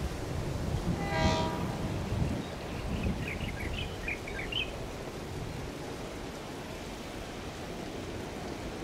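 Approaching train with a steady low rumble, sounding one short horn blast about a second in. A few faint bird chirps follow a couple of seconds later.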